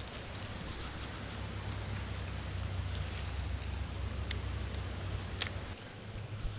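Faint short high chirps of small birds over a steady low rumble that stops near the end, with one sharp click about five and a half seconds in.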